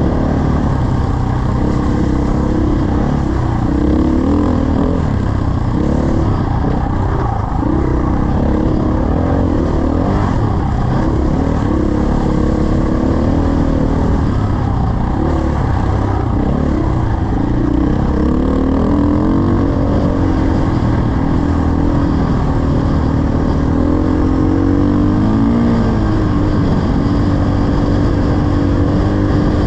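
Dirt bike engine running under changing throttle as the bike is ridden, its pitch rising and falling, with wind rumble on the microphone.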